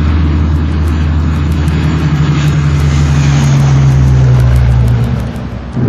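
Propeller aircraft's piston engine running, a loud steady drone with a low hum whose pitch shifts slightly partway through, cut off abruptly near the end.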